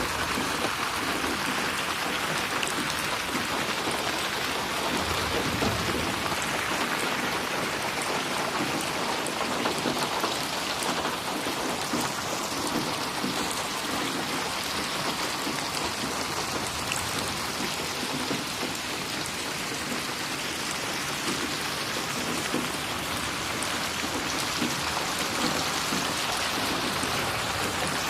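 Steady rain falling and splashing on a surface, a dense even patter of drops without thunder.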